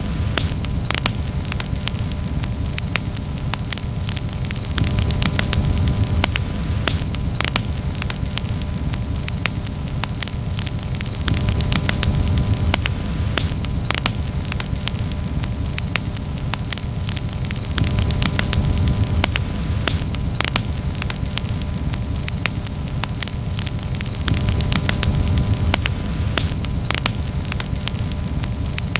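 Campfire crackling: frequent sharp pops and snaps of burning wood, scattered irregularly over a steady low rumble.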